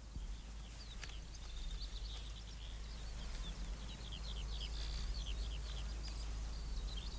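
Birdsong: small birds chirping in quick runs of short, falling notes, busiest in the middle, over a steady low hum.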